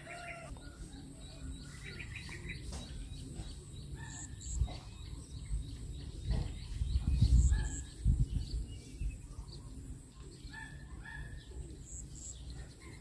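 Small birds chirping in short, scattered calls, with a low rumbling noise on the microphone swelling about six to eight seconds in.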